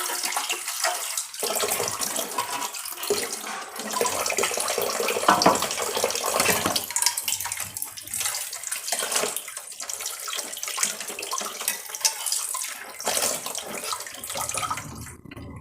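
Water running from a tap into a sink while things are washed under it by hand, with frequent small knocks and clatters. Near the end the water stops.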